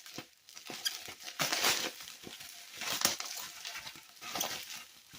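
Irregular rustling and clicking of packaging and a plastic toy being handled, with a longer rustle about a second and a half in and a sharp click at about three seconds.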